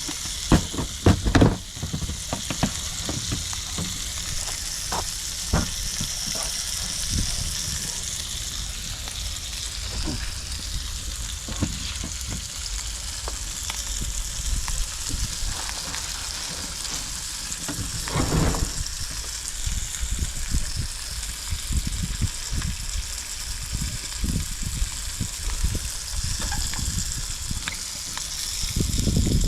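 Food sizzling steadily in a frying pan, with scattered knocks and taps from the pan and utensils. The loudest knocks come in the first couple of seconds, and a louder stretch comes about eighteen seconds in.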